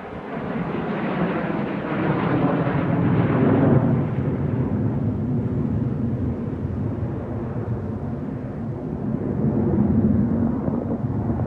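Jet roar of a USAF Thunderbirds F-16 Fighting Falcon passing by. It builds to a peak about four seconds in, settles to a lower rumble, and swells again near the end.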